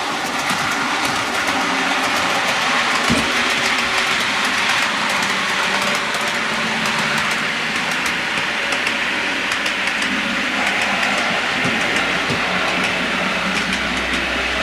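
OO gauge Bachmann Class 47 model locomotive running on the layout's track: a steady motor whirr and wheel rumble, with small irregular clicks as the wheels cross the rail joints.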